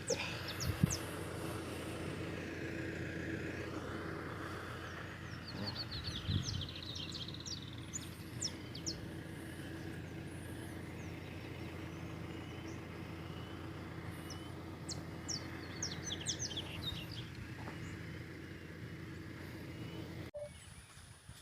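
Birds chirping in short repeated calls over a steady low hum from an engine or motor; the hum cuts off abruptly near the end.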